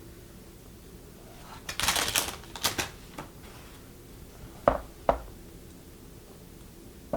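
Plastic nail tips and their packaging being handled: a short crinkling rustle about two seconds in, a few light clicks, then two sharp plastic clicks about half a second apart.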